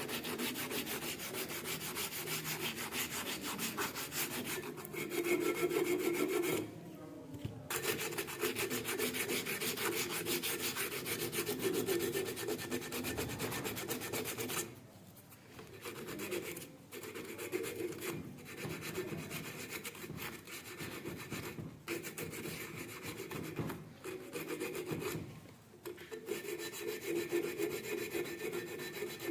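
Rapid hand rasping strokes on the rusted steel of a pair of cutting pliers, going on in steady runs broken by several short pauses.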